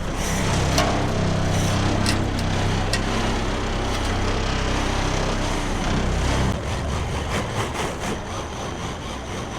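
Truck engine running steadily while a vehicle is unloaded off the back, with a few clanks in the first few seconds.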